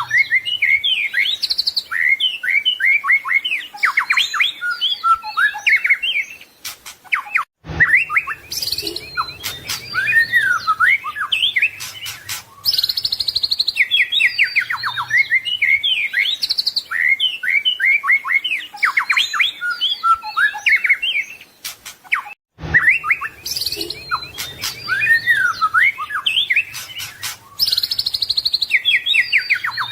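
White-rumped shama (murai batu) singing a long, varied song of rapid trills, whistles and gliding phrases packed with mimicked calls (full isian). The song breaks off for a moment twice and the same run of phrases repeats.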